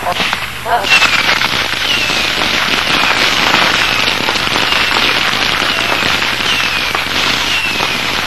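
Fireworks lit all at once, crackling densely and continuously after a few sharp pops in the first second. Short falling whistles sound about once a second over the crackle.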